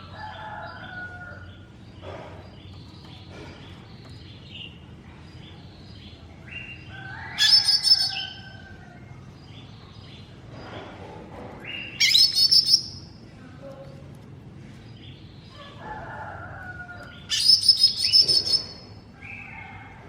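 Cucak ijo mini (a small green leafbird) singing: three loud bursts of rapid, high chirping song about five seconds apart, with softer twittering calls in between.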